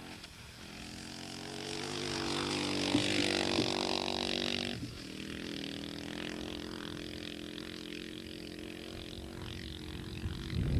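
Husqvarna 610 single-cylinder four-stroke dirt bike engine running as the bike is ridden on ice. It builds up over the first few seconds, then drops suddenly about five seconds in to a steadier, quieter note.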